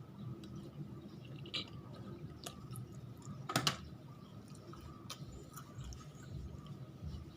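Close-miked chewing of food, with wet mouth clicks scattered throughout and a sharper pair of clicks about halfway through.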